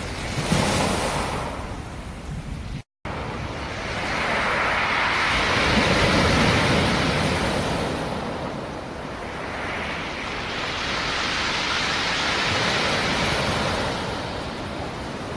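Sea surf. A wave breaks just after the start, then two long swells of surf rise and fall. The sound drops out for an instant about three seconds in.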